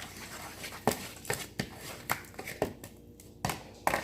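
A string of irregular sharp clicks and taps, about eight in four seconds, from hands handling slime and its containers.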